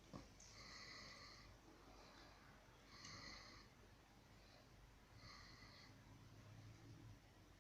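Faint breathing, short breathy puffs coming about every one to two seconds.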